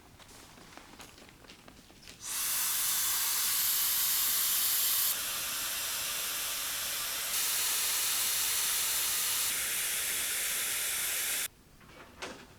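A loud, steady hiss that starts suddenly about two seconds in and cuts off suddenly near the end, with abrupt shifts in level partway through.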